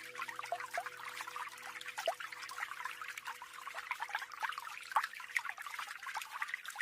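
Small natural waterfall on a mountain stream: water splashing and trickling in many small drops, much like a fountain.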